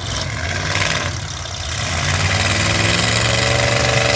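Full-size pickup truck engines running in a demolition derby, with an engine's pitch rising near the end as a truck revs up.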